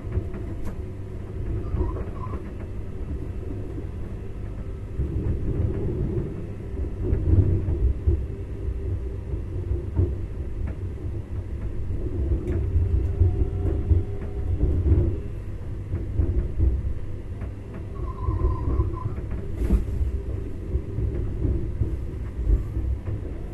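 Passenger train running through a station yard, heard from inside the driver's cab: a steady low rumble with a hum, and now and then a sharp click as the wheels cross joints or points. A brief higher squeal comes about 18 seconds in.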